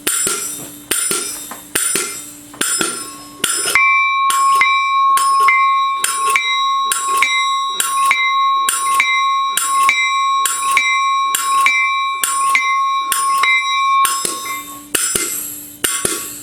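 Steel locomotive bell struck by its Graham White pneumatic double-action clacker running on compressed air. It strikes about once a second at first. From about four seconds in it rings steadily at about two strikes a second with a sustained bell tone, then slows back to single strikes near the end.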